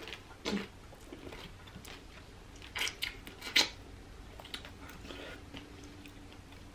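A person biting and chewing a sauced shrimp eaten whole with its shell on: a few short, separate mouth sounds, the clearest about half a second, three and three and a half seconds in.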